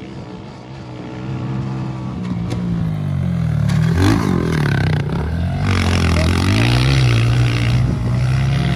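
Off-road vehicle engines revving up and down as they race, more than one engine heard, growing louder as they come closer.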